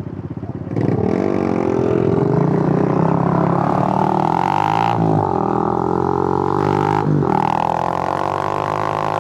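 Suzuki GN125's air-cooled single-cylinder four-stroke engine accelerating. Its pitch climbs about a second in, drops briefly at two gear changes, and rises again after each upshift.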